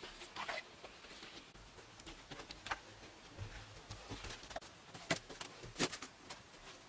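Irregular light knocks and clicks, with two sharper strikes about five and six seconds in.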